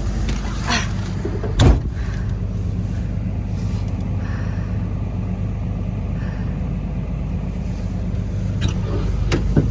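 A vehicle engine running steadily at a low rumble, with one sharp knock about two seconds in.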